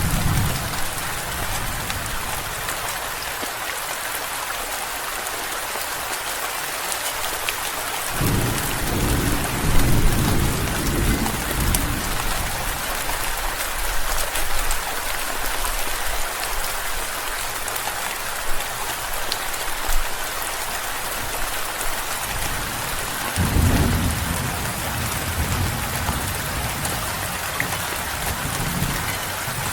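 Steady heavy rain falling throughout, with thunder rolling in low twice, about eight seconds in and again past twenty-three seconds, each rumble lasting a few seconds. The tail of an earlier roll fades away at the very start.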